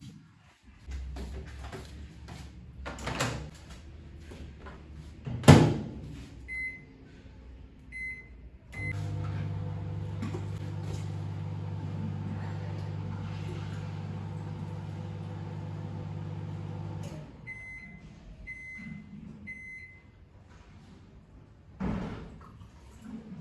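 Microwave oven: a knock like its door shutting, keypad beeps, then a steady hum as it runs for about eight seconds, ending with three beeps when the cycle is done.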